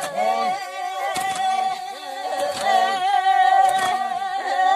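Unaccompanied folk singing by several voices, one holding a long steady note while another voice moves and bends around it.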